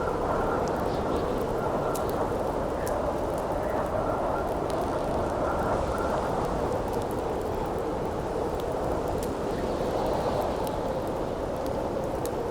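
Steady howling wind with scattered sharp pops and crackles from a wood campfire.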